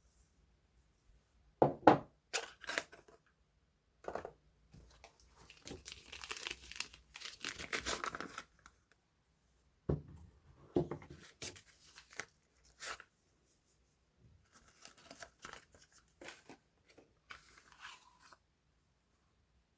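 Soap packaging being unwrapped by hand: a few sharp knocks and taps, a stretch of tearing and crinkling a few seconds in, and softer rustling near the end.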